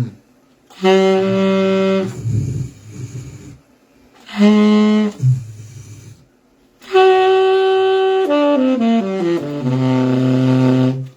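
Saxophone played with a low voice hummed into the horn at the same time, the voice-and-sax effect: three phrases, the last and longest stepping down note by note while the voice holds one continuous pitch.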